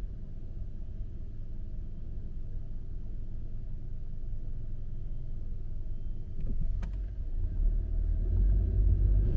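Low, steady rumble of a passing vehicle or road traffic, growing louder over the last couple of seconds, with a sharp click about seven seconds in.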